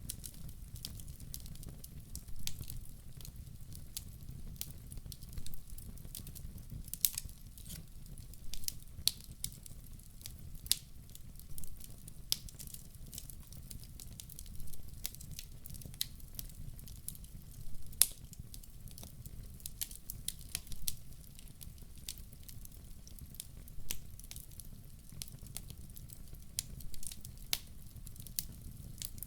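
Wood fire crackling, with irregular sharp pops and snaps, often several a second, over a steady low rumble of burning.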